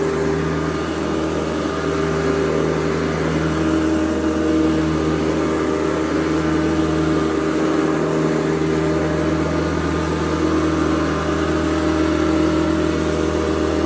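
Hoover Convertible U4101 upright vacuum cleaner running with a steady motor hum, its tone shifting slightly now and then.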